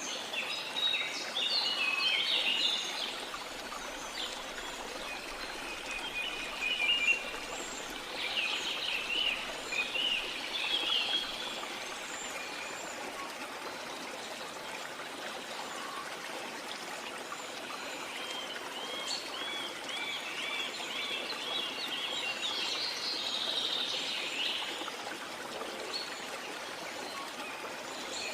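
Several birds singing and calling over steady running water, with a flurry of calls in the first few seconds, more from about a quarter of the way in, and a quick run of repeated notes past the middle.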